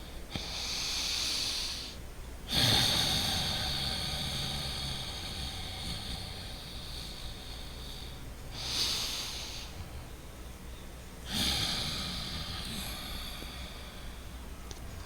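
A man breathing loudly and deliberately through his nose in a slow, uneven rhythm. Four breaths: a short swelling breath, then a longer one that starts abruptly and trails off over several seconds, repeated twice.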